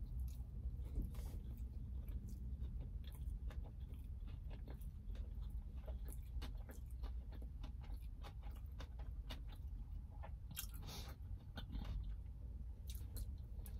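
Close-up chewing of a bite of crumb-topped shrimp tempura sushi roll, with many small crunches and wet mouth clicks. A low steady hum lies underneath.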